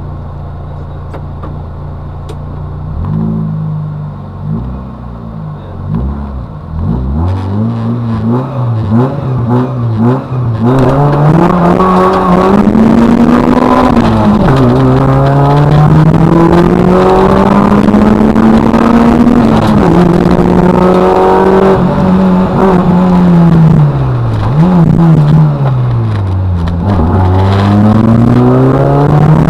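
Citroën Saxo 1.6 VTS rally car's engine heard from inside the cabin. It idles steadily for the first few seconds, then is revved and pulls away. It then runs hard, its pitch climbing through each gear and dropping at every shift or lift.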